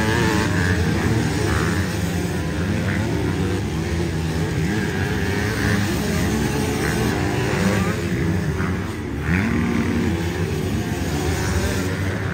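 Several motor engines running together at a steady level, with one revving up a little after the middle.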